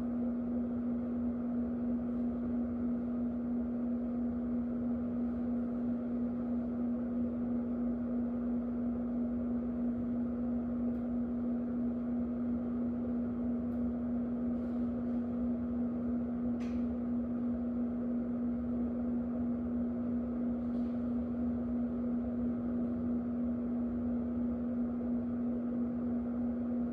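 Electric fan running steadily: a constant low hum over an even rush of moving air.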